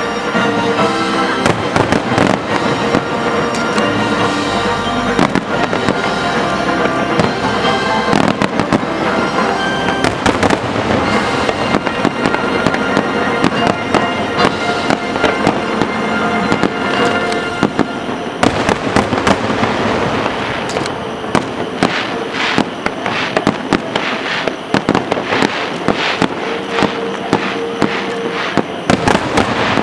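Fireworks display: aerial shells bursting and crackling over music from loudspeakers. About two-thirds of the way through, the bursts turn into a dense run of rapid crackles.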